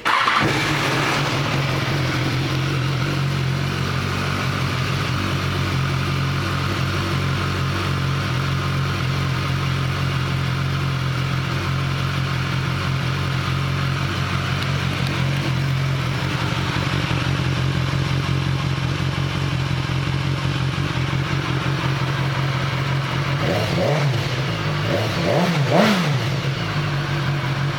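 BMW S1000XR's inline-four engine starting and settling into a steady idle. Near the end it is revved in a few short throttle blips.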